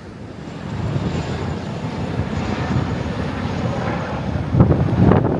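Wind buffeting the microphone: a rough rumbling noise that grows louder about a second in, with heavier gusts near the end.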